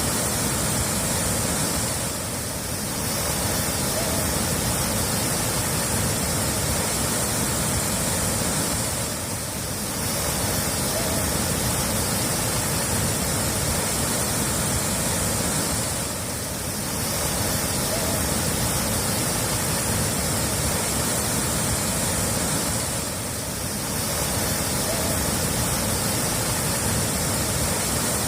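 Steady rush of running water, dipping briefly about every seven seconds.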